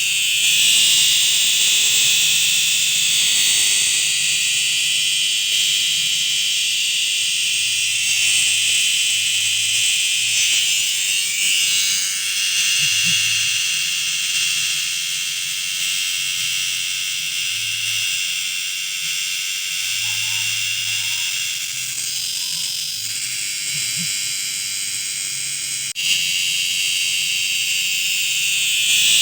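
Cicada singing: a loud, continuous, high-pitched buzz that swells and eases in strength, strongest near the start and again near the end. There is a single sharp click about 26 seconds in.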